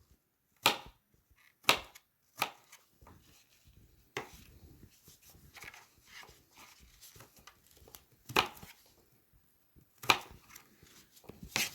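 Knife chopping cucumber on a cutting board: about seven sharp chops at irregular intervals, with faint handling sounds between them.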